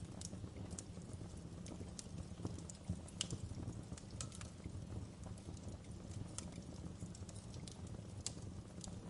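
Wood fire burning in a fireplace: a steady low rumble of flames with irregular sharp crackles and pops from the burning wood, a few louder pops about three seconds in.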